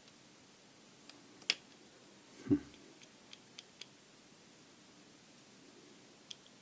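Plastic pressure-washer pump parts being handled on a workbench: a few light clicks and one duller knock about two and a half seconds in, against quiet room tone.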